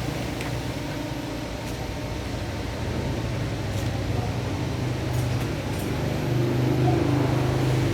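A steady low mechanical hum that grows a little louder in the second half, with a few faint clicks.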